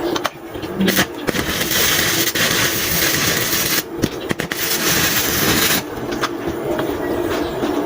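Harsh, loud metalworking noise, a dense hiss and crackle that comes in stretches, breaking off briefly about four seconds in and again near six seconds.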